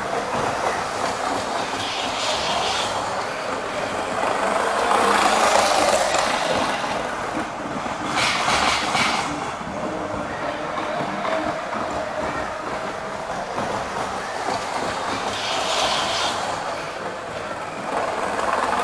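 Model Virgin Pendolino train running on the layout's track: a steady motor-and-wheel running noise with clicking over the rail joints. It swells briefly a few times, most strongly about eight seconds in.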